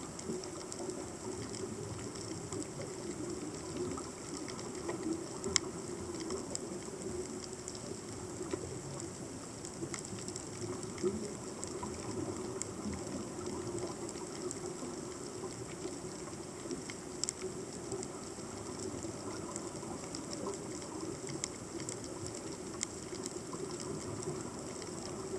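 Underwater ambience picked up by a submerged camera: a steady low hum of water with a continuous fine crackle and a few sharper clicks.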